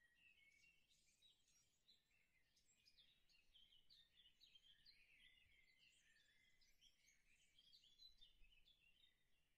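Very faint birdsong, a busy twitter of many short chirps, over near silence.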